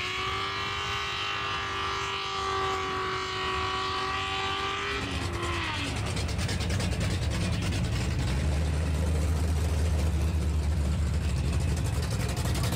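A car engine revs up to a high, steady pitch, holds it for about five seconds and then drops away. A deep, steady engine rumble follows and grows a little louder toward the end.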